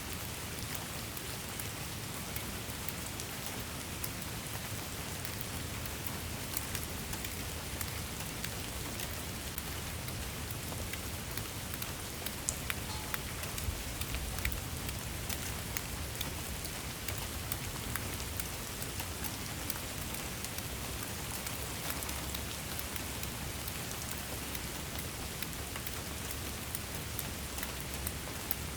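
Steady rain falling, an even hiss with many small sharp drop ticks over a low rumble.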